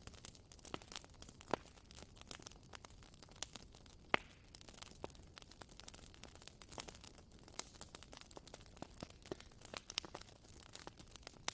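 Bonfire crackling: irregular pops and snaps over a soft hiss, with one louder pop about four seconds in.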